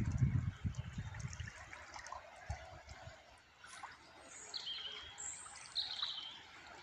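Water trickling steadily while small songbirds give several short, high chirps in the second half. Low rumbling thumps sound in the first second and a half.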